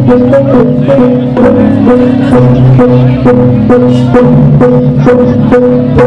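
Balinese gamelan playing: struck metal keys and gongs in a quick, even rhythm over several held notes.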